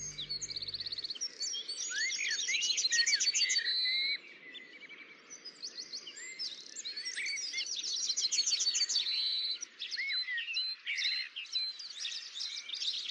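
Songbirds chirping and trilling, several overlapping songs of quick repeated high notes and short rising-and-falling whistles. The last note of the music dies away about a second in.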